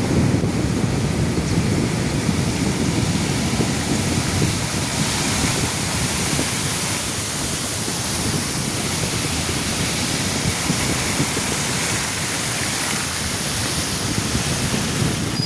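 Steady rushing of running water, with wind buffeting the microphone as a fluttering rumble.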